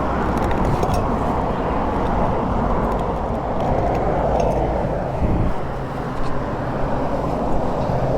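Steady wind rush on the microphone over the low hum of a motorcycle engine and road noise, as from a Yamaha Ténéré 700 being ridden.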